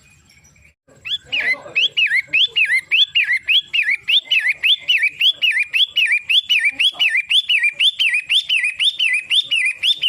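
Long-tailed shrike singing: after about a second of quiet it starts a long, fast run of the same sweeping up-and-down note, repeated about two to three times a second.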